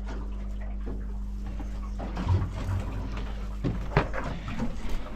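Knocks and clatter of fishing gear being handled in a boat over a steady low hum. The hum is even at first; from about two seconds in come irregular knocks, with a few sharper hits.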